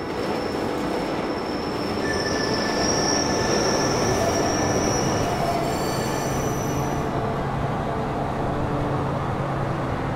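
Metro train running on rails: a steady loud noise of the moving train, with high-pitched wheel squeal from about two seconds in that lasts several seconds.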